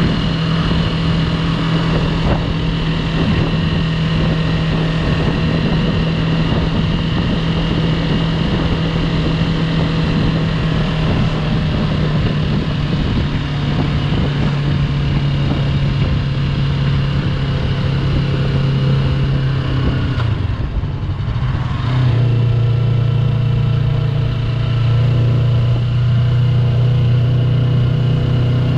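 Yamaha YZF-R3's parallel-twin engine running steadily under way. The engine note dips briefly about twenty seconds in, then holds a little louder.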